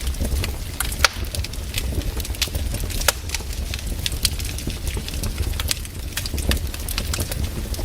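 Wood fire in a fireplace crackling, with frequent sharp snaps and pops over a steady low rumble of the flames.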